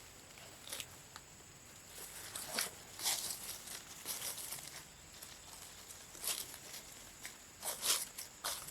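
Irregular rustling and crackling, a run of short scratchy noises with the loudest about three seconds in and again near the end.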